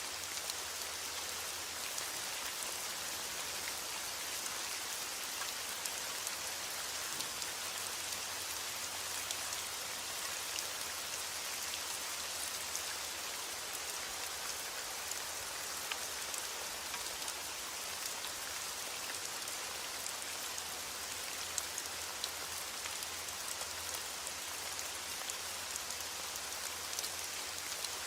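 Steady rain: a dense, even hiss with scattered sharper drop ticks over a faint steady low rumble.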